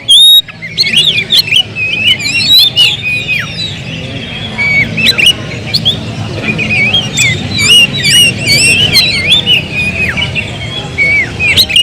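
Oriental magpie-robin (kacer) singing a rapid, unbroken run of varied whistles and chirps over a steady low background noise.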